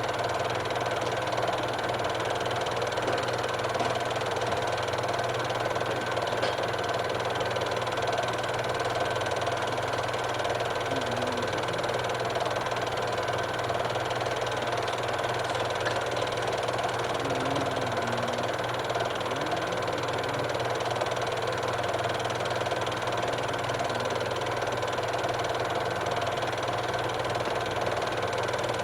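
Steady mechanical running noise with a constant hum and a fine, even rattle, unchanging throughout.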